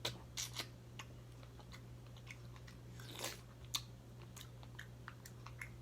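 A person chewing food close to the microphone, with scattered soft mouth clicks and smacks over a steady low hum.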